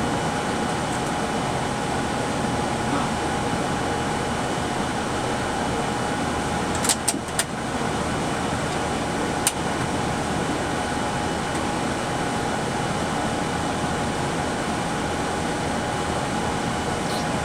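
Steady flight-deck background noise of a Boeing 787 during pushback: an even rush of ventilation air and systems with a constant mid-pitched tone. Three sharp clicks come close together about seven seconds in, and one more about two seconds later.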